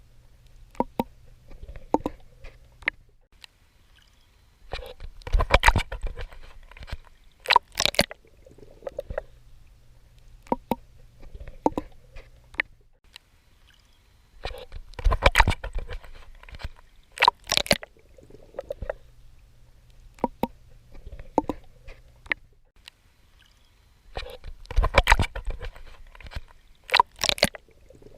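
Swimming in water: clusters of splashing strokes come about every ten seconds, three times over, with quieter sloshing and a low steady hum between them.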